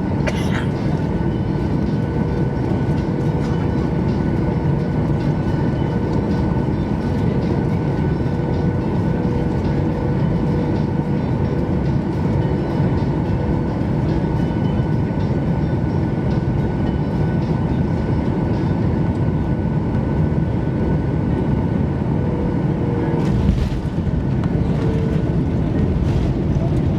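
Steady cabin noise inside a Boeing 737-800 with CFM56-7B engines: a low engine and airflow rumble with a faint steady whine, and a short knock near the end.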